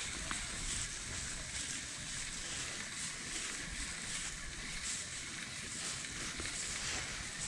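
Steady outdoor hiss of wind and water around a kayak on a lake, with no distinct events.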